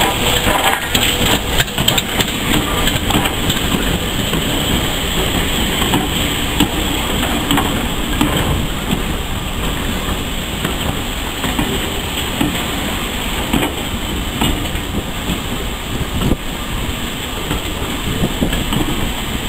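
Steam-hauled passenger train passing close by: the coaches roll past with a steady loud rumble, broken by scattered knocks and clicks as the wheels run over the rail joints.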